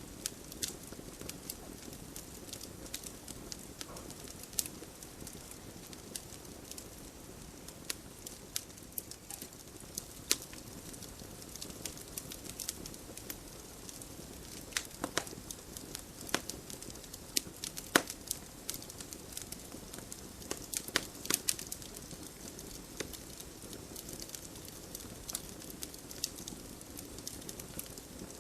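Wood fire crackling: irregular sharp pops and snaps over a steady low hiss of the burning logs, with a few louder pops around the middle.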